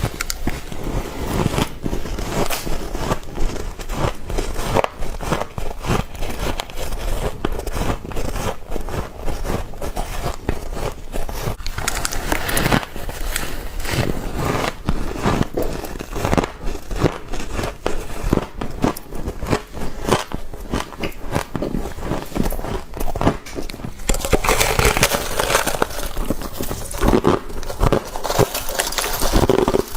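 Close-up biting and chewing of frost: a steady run of crisp crunches and crackles, growing denser and brighter in the last few seconds.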